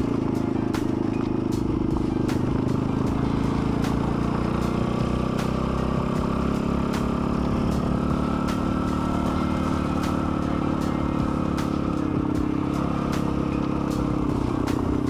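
Dirt bike engine running steadily while riding, its pitch dipping briefly near the end as it slows and then picking up again. A light regular tick sounds about once a second over it.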